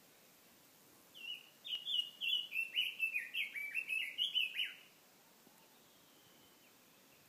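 A small songbird sings one fast phrase of short, high, down-slurred notes lasting about three and a half seconds. Under it runs the faint, steady rush of a mountain stream.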